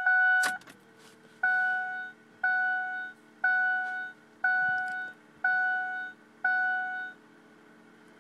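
Pickup truck's dashboard warning chime: a tone that cuts off with a click about half a second in, then six evenly spaced beeps about once a second, over a faint steady hum with the key on and the engine not yet running.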